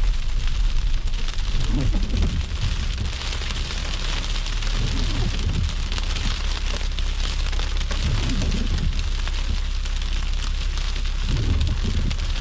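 Road noise of a car driving through a snowstorm: a steady hiss of wet, snowy road over a constant low rumble.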